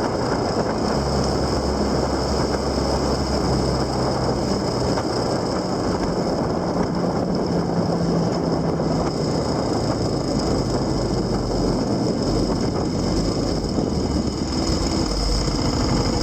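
Vehicle engine running on the move, a low engine hum that shifts in pitch now and then under a steady rush of road and wind noise.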